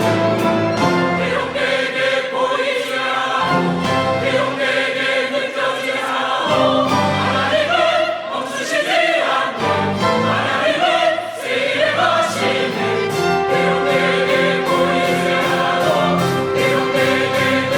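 Church choir singing an anthem with instrumental accompaniment, with regular cymbal taps running through it.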